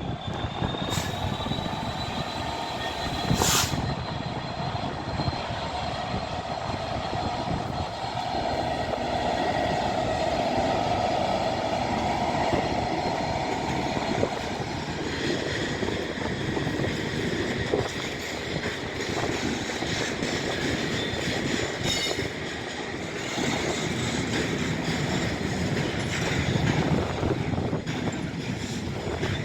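Class 66 diesel freight train moving off and rolling by, with high squealing tones from wheels on the rails over a steady rumble. A few sharp knocks stand out above the rumble.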